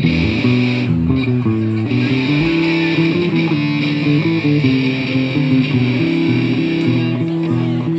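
Hardcore punk band playing a riff on distorted electric guitars and bass guitar.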